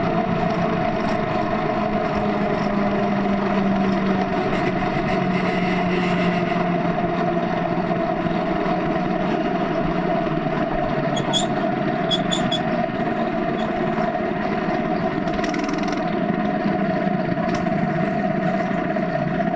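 Small minibike engine running at a steady speed, its pitch holding nearly constant, with a few faint light ticks about two-thirds of the way in.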